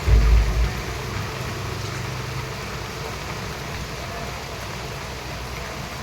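Steady rain falling, with a brief low rumble in the first second.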